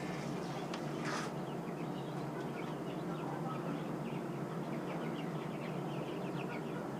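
A flock of chickens clucking and peeping softly over a steady low hum, with a short rustle about a second in.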